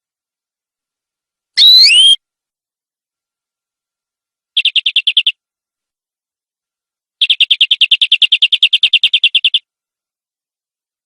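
Domestic canary singing in separate phrases: a loud swooping whistle about two seconds in, then a short rapid trill of repeated notes near the middle and a longer trill of about two and a half seconds.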